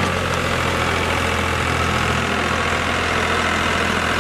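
New Holland 3630 tractor's diesel engine idling steadily.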